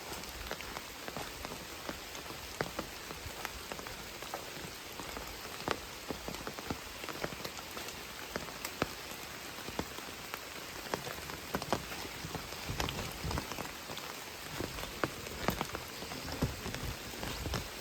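Steady rain falling, with many individual drops tapping sharply and irregularly close by over an even hiss.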